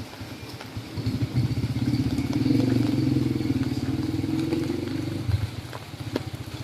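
Small motorcycle engine passing close by, building up over a second or two and fading away after about five seconds.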